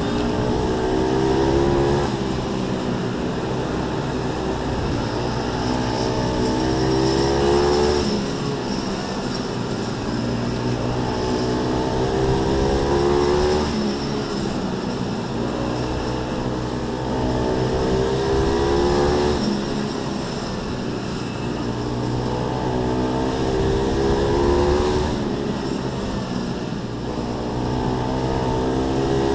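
Small pit bike motorcycle engines racing, their pitch climbing hard over a couple of seconds and then dropping back, again and again about every five or six seconds, as the bikes accelerate and back off around the track.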